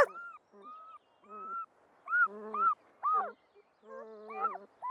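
Cartoon newborn puppies whimpering and squeaking: a run of short, high, rising-and-falling yips, one after another with brief gaps.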